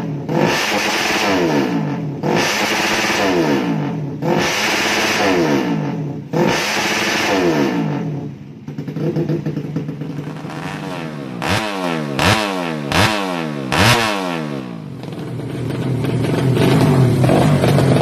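A drag-tuned Yamaha Jupiter Z underbone's single-cylinder four-stroke engine through a racing exhaust, revved again and again in cycles of about two seconds. About two thirds of the way in come four quick, sharp throttle blips, and near the end the engine is held at higher revs.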